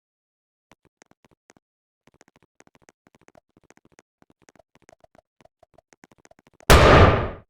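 Faint scratching and light clicks, then one loud bang near the end.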